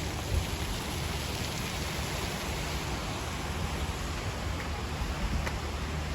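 Steady rushing hiss of fountain water spraying and falling back, even and without a break.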